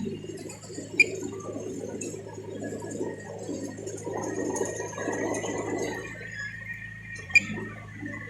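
Bulldozer's diesel engine running steadily, with a rougher rumble over it for the first six seconds. Two sharp metallic clinks come about a second in and near the end.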